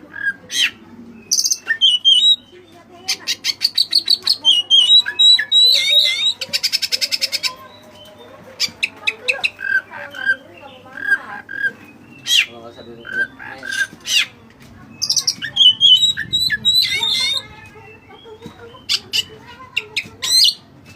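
White-breasted oriental magpie-robin (kacer) singing a loud, varied song of chirps, whistled notes and rising sweeps, with two fast rattling trills, its song filled with phrases copied from other birds.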